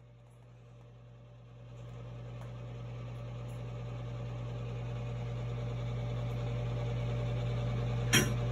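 A steady low hum that grows steadily louder, with a single sharp click near the end.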